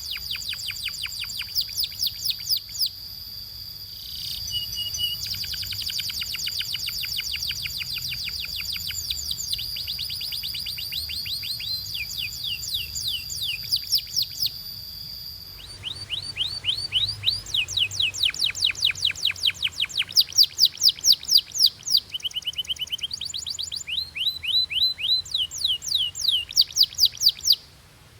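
Canary singing: fast trills of rapidly repeated falling notes in high rolls, changing from one trill to the next. A long steady high note runs under the trills through the first half. The song changes to a second passage about halfway through and stops suddenly at the end.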